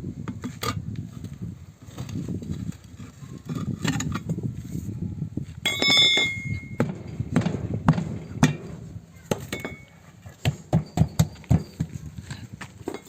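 Irregular knocks and metallic clinks of hand tools being worked on a tractor tyre during puncture repair, with a brief ringing tone about six seconds in and a quick run of sharper knocks near the end.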